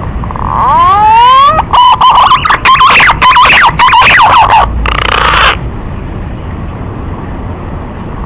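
Male green pigeon (punai) calling: a few rising whistled glides that run into a rapid, loud jumble of fluty whistles for about three seconds, ending in a short burst of hiss. Background hiss carries on after it.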